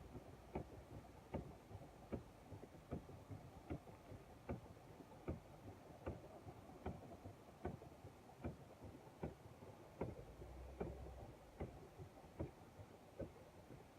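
A vehicle's turn-signal or hazard flasher ticking faintly and evenly, about once every 0.8 seconds, heard inside the parked vehicle's cabin.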